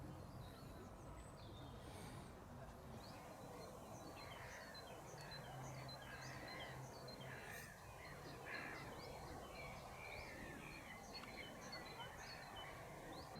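Faint chorus of many birds calling outdoors: dense short chirps and calls overlapping, starting about three seconds in.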